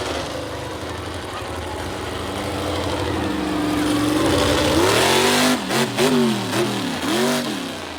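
Monster truck engine running hard, its pitch climbing over the first few seconds, then revved up and down in several quick throttle blips before fading away near the end.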